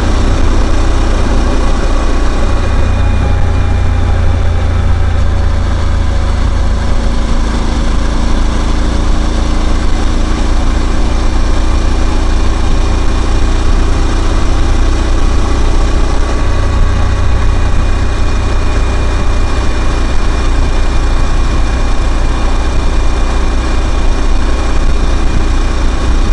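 Suzuki V-Strom 1000's V-twin engine running steadily, with a steady rushing hiss over it.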